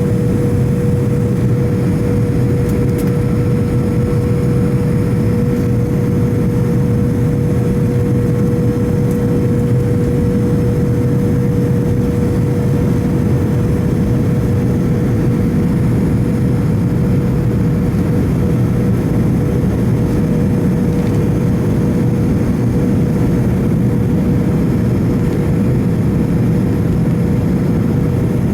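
Cabin noise of a McDonnell Douglas MD-88 heard from a window seat near its rear-mounted turbofan engines at high power: a loud, steady roar with a constant hum-like tone through it.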